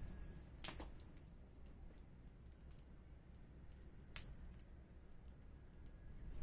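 Wood fire crackling: a few sharp, scattered pops, the loudest just under a second in and about four seconds in, over a faint low rumble.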